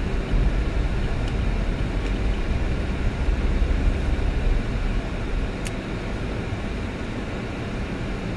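Steady low rumble of a car on the move, road and engine noise, with a faint click a little past halfway.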